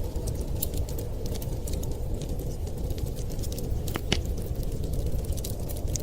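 Wood fire crackling with irregular small pops, two sharper pops about four seconds in, over a steady low rumble of winter wind.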